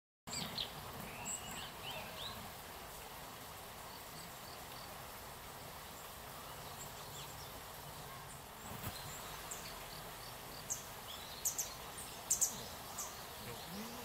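Small woodland birds calling: a few faint chirps about a second in, then a quick cluster of short, very high-pitched call notes near the end, over a steady background hiss.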